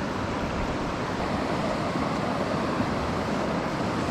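Steady rush of a clear mountain stream's flowing water, an even wash of noise with no breaks.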